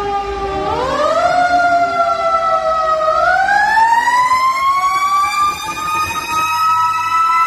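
Fire truck siren wailing: its pitch climbs about a second in, sags slowly, then winds up again and holds high.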